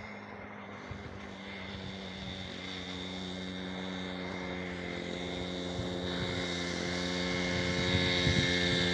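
Orion 50 small motorcycle engine running with a steady buzzing note, growing steadily louder.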